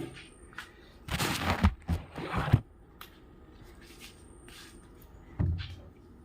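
Pots being scrubbed and handled: short bursts of scraping with low knocks, two close together about a second in and one more near the end.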